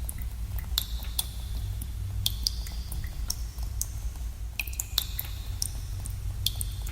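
Water dripping in a cave: irregular drops, several a second, each a sharp plink with a brief echoing ring. Under them runs a steady low rumble.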